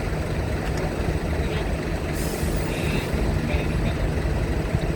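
Heavy vehicle engines running in a steady low rumble, with a short burst of hissing air about two seconds in.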